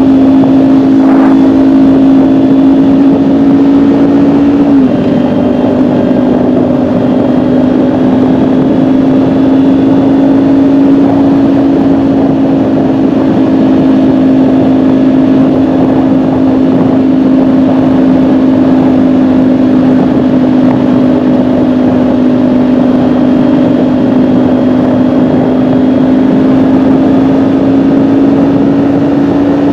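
Kawasaki Ninja 400's parallel-twin engine running at a steady cruise, settling a little lower in pitch about five seconds in and holding nearly level after that.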